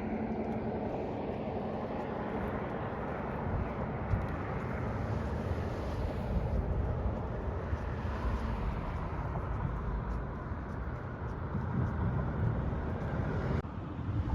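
Steady low rumbling noise of a vehicle on the move, with no distinct events.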